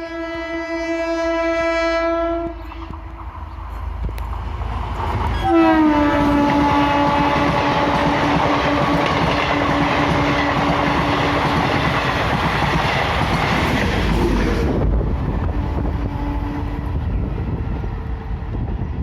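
Diesel-electric multiple unit passenger train passing and sounding its horn twice. The first horn ends about two and a half seconds in. The second, long horn starts about five seconds in and dips slightly in pitch at its start, over the loud rush and clatter of the train going by. The rush drops away to a quieter rumble about fifteen seconds in.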